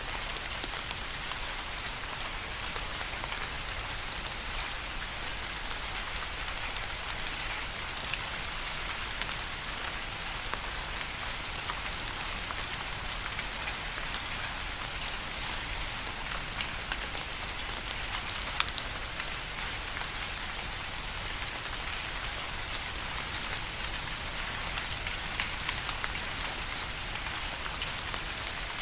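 Steady rain falling, a constant hiss with many small, distinct drop patters.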